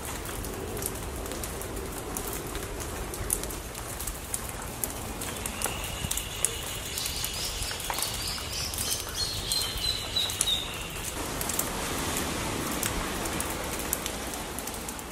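Rain falling on foliage: an even hiss with many scattered drips. Midway through, a bird calls with high, thin notes.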